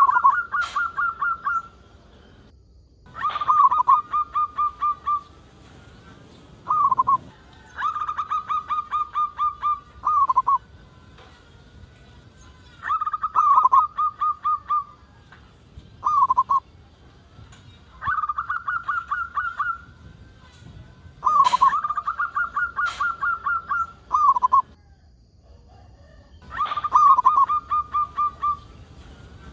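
Zebra dove (perkutut) singing its cooing song over and over: about nine phrases, each a fast run of staccato coos ending on a lower note, with short pauses between.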